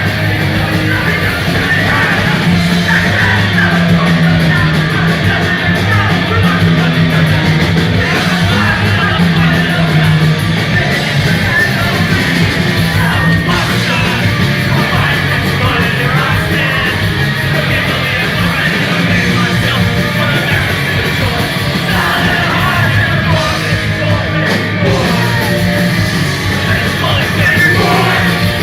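Punk rock band playing live: loud distorted electric guitars, bass and drums with a singer yelling the vocals.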